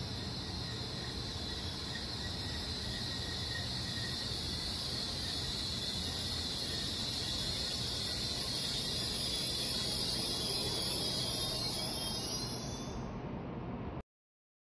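N700-series Shinkansen train standing at the platform: a quiet, steady hum with a high hiss from its running equipment. The sound cuts off abruptly near the end.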